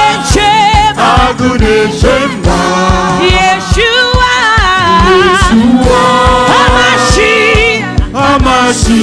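Live gospel worship music: singers holding long notes with vibrato over a steady drum beat of about four strokes a second.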